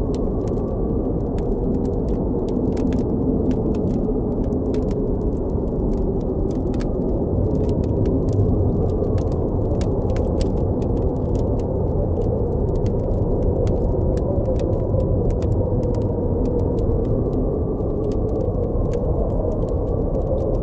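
Blizzard wind blowing steadily, its low howl slowly rising and falling in pitch, with the frequent irregular crackle and pops of a campfire over it.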